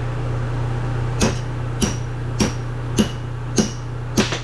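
Hammer striking metal six times at an even pace, about one blow every 0.6 s, each with a short metallic ring, over a steady low hum.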